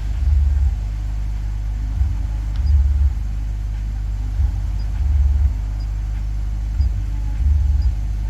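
Car stereo playing music, heard mostly as a deep bass line pulsing every second or so over a steady low hum, with faint ticks about once a second higher up.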